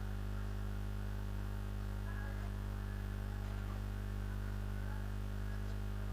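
Steady electrical mains hum, a low buzz with a stack of overtones that holds unchanged.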